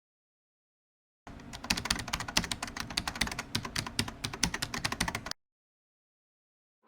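Rapid keyboard typing, a dense run of quick clicks lasting about four seconds that starts about a second in and stops abruptly.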